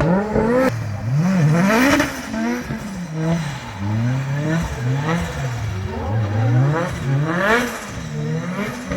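Drift car engine revving hard, its pitch climbing and dropping over and over, about once a second, as the throttle is worked through a drift.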